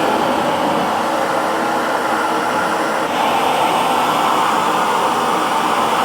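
Hair dryer running steadily, an even whoosh of blown air with a faint motor hum, rising slightly in level about halfway through.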